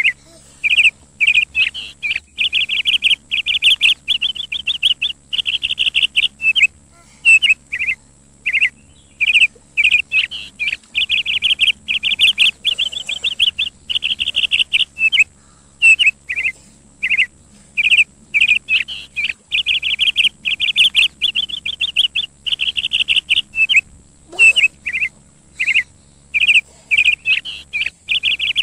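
A bird chirping over and over in quick trilled bursts, some short and some drawn out, with brief breaks between them.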